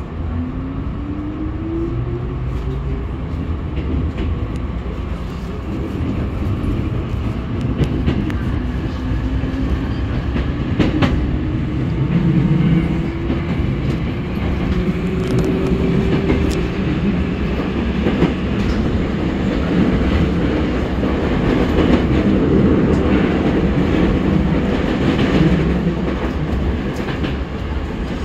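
Hankyu 5300 series electric train, heard from inside a passenger car as it pulls out of a station and accelerates. Its traction motors whine, rising in pitch, over a steady running rumble, with now and then a clack of wheels over rail joints.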